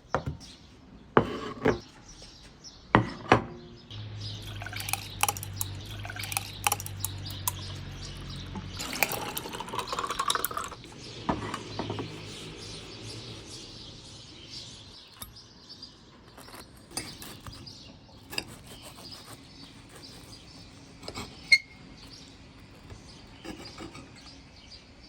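Kitchen work: dishes and utensils clinking and knocking, with water running for a few seconds and then liquid pouring into a container, its pitch rising as it fills.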